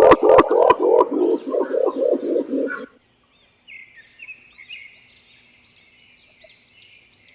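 Green imperial pigeon's deep, rolling hu-hu-hu cooing, a fast run of low hoots, with a few sharp clicks in the first second; it stops about three seconds in. After a short gap, faint high chirps of a small bird follow.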